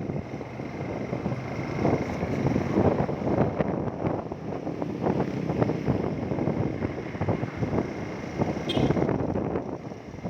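Wind buffeting the microphone on a moving motorcycle, over the motorcycle's engine and road noise, with a faint steady whine throughout. A brief higher sound cuts through near the end.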